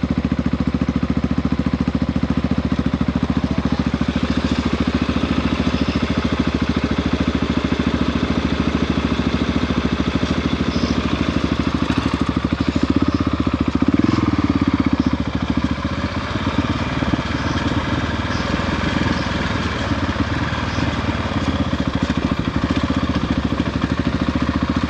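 Adventure motorcycle engine running at low, steady revs, picking up briefly about 13 seconds in, then easing off.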